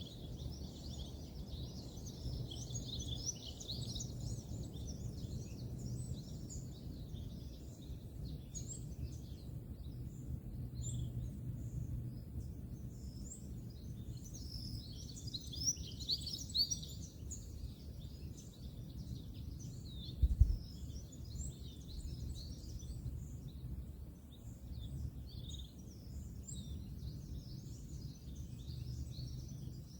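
Many small birds chirping and calling over a steady low rumble of distant road traffic, with a single low thump about two-thirds of the way through.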